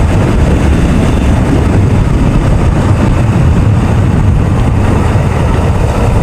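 Motorcycle on the road in traffic: steady engine and road noise, loud and heavy at the low end, with wind on the microphone.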